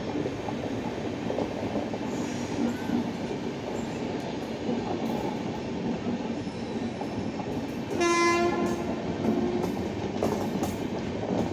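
Indian Railways LHB passenger coaches rolling past with a steady rumble of wheels on the rails. About eight seconds in, a train horn sounds once, loud at first and trailing off after about a second and a half.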